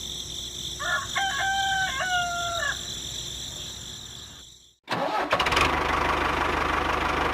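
A rooster crows once, a long call. After a brief break, a small engine starts up and runs with a fast, even beat: the homemade mini tractor's engine.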